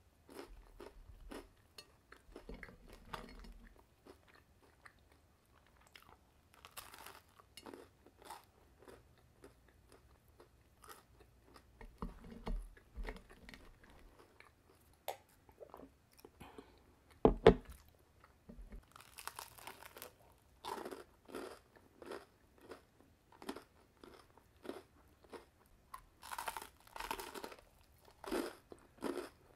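Chewing and crunching of a toasted panini sandwich, with repeated bites into the crisp bread. One louder sharp knock stands out about two-thirds of the way through.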